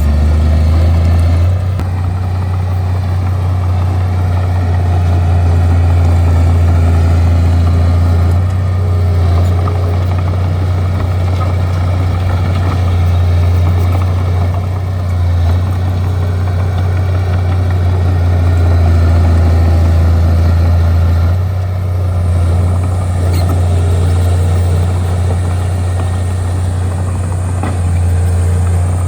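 A bulldozer's diesel engine runs with a steady low drone, easing off and picking up slightly every few seconds as the machine works.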